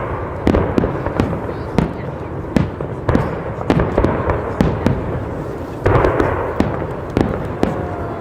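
Fireworks going off: a rapid, uneven series of sharp bangs, about two a second, over continuous crackling and rumble.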